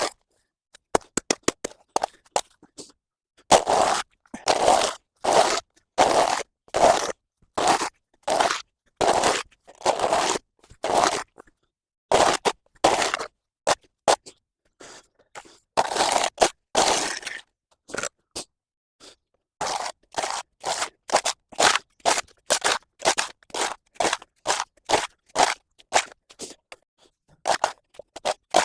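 A spade scraping mud and leaf litter off a path surface in repeated strokes, a little over one a second, with a short spell of small scuffs and clicks near the start.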